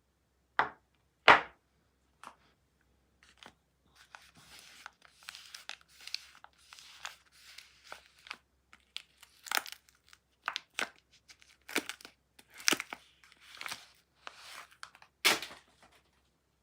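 Soap packaging being torn open and crinkled by hand, a dense run of tearing and rustling with sharp crackles. Two sharp knocks come about half a second and a second and a half in, before the tearing starts.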